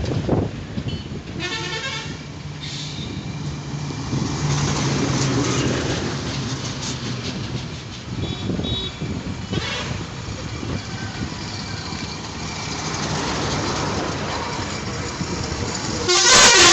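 Road traffic rumbling steadily, with short horn toots twice and a louder horn blast near the end.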